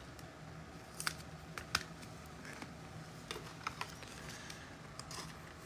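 Faint, scattered light clicks and taps, a few each second and irregular, over a low steady hum.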